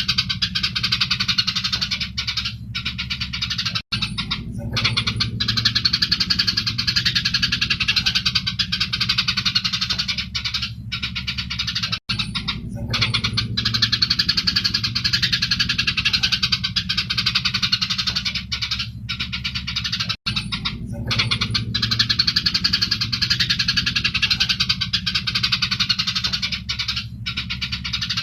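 Eurasian tree sparrows chirping rapidly and continuously in a dense, excited agitated chatter, over a steady low hum. The recording loops about every eight seconds, each repeat starting after a brief cut-out.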